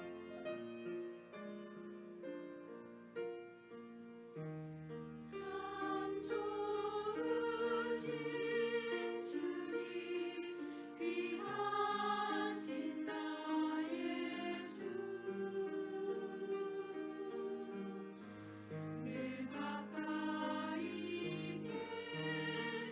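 Church choir singing a hymn with piano accompaniment. The piano plays alone at first, and the choir comes in about five seconds in.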